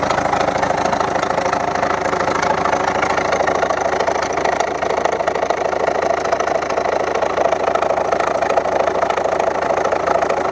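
2011 Volvo V70's 1.6-litre diesel engine idling steadily with a knock, caused by the second injector from the right leaking past its copper sealing washer.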